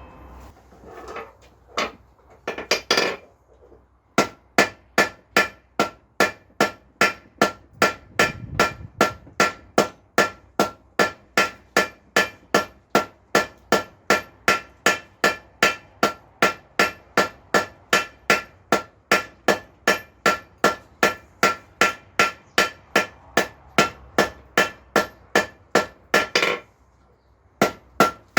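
Blacksmith's hammer forging a nail on an anvil: a steady rhythm of about two blows a second, each with a bright metallic ring. A few irregular knocks come before the rhythm settles in, and the blows stop briefly near the end.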